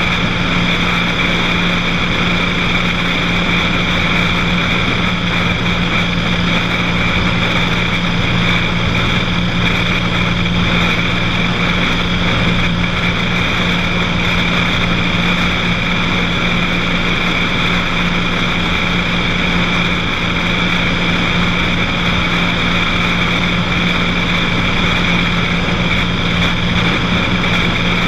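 Cessna 182's single piston engine and propeller running steadily in flight: a loud, even drone with a constant low hum.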